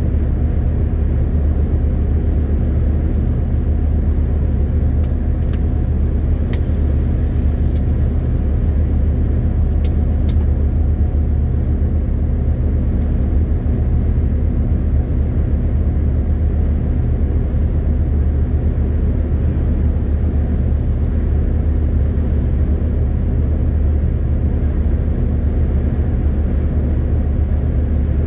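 MAN TGX 18.520 truck's straight-six diesel engine running steadily while driving, a constant low drone with road noise. A few faint ticks come in the first third.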